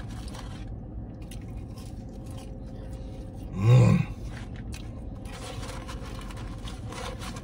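A man chewing french fries, with small crunching and mouth sounds, and a loud hummed "mmm" about three and a half seconds in as he savours them.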